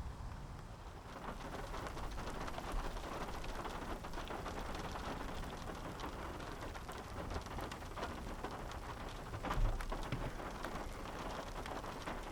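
Steady rain from a thunderstorm pattering on surfaces close by, a dense patter of drops that picks up about a second in, with a short low thump about nine and a half seconds in.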